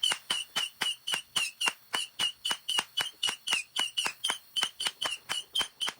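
A 100-shot Saturn missile battery firing in a rapid, even string of about five shots a second. Each small missile gives a short whistle and a crack.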